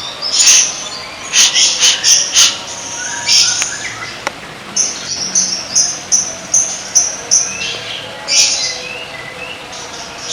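A songbird singing loud, high-pitched chirps and whistled phrases, with a run of short, quickly repeated notes in the middle, over a faint steady chorus of other birds or insects.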